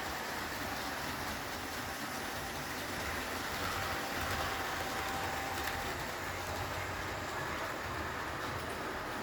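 HO-scale model train running along the layout track: a steady rolling rush of wheels on rail with a faint, even motor whine.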